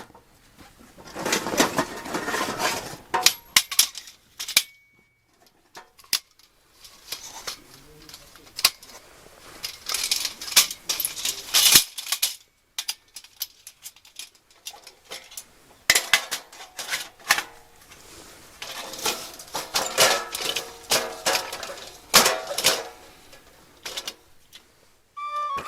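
Irregular clinks, knocks and short scrapes of camp gear being handled, with a brief beep-like tone about four and a half seconds in.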